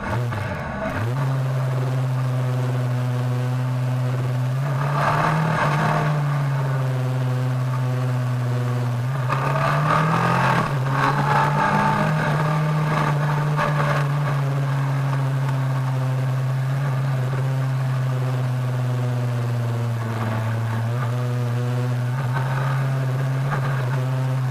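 Kawasaki ZRX1200R inline-four engine running at a steady cruising pitch on the move. The pitch dips and climbs back within the first second, and rises briefly twice, about five and ten seconds in, with a louder rushing noise each time.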